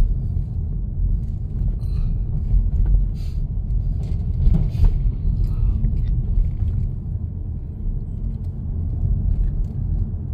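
Steady low rumble of a car heard from inside the cabin, with a few faint clicks or rattles a few seconds in.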